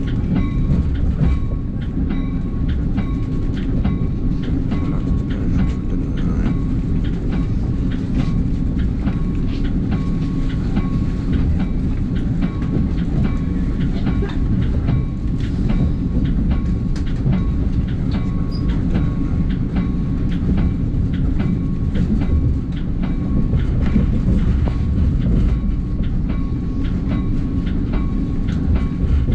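NJ Transit commuter train heard from inside the passenger car while running: a steady low rumble of wheels on track, with many sharp clicks and a faint steady whine.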